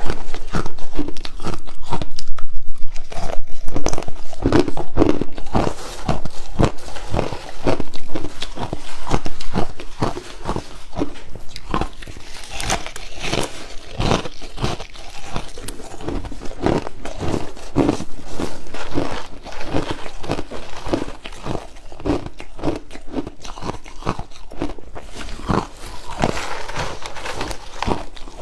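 Crushed ice being bitten and chewed up close: a dense, irregular run of crisp cracks and crunches, louder in the first ten seconds or so.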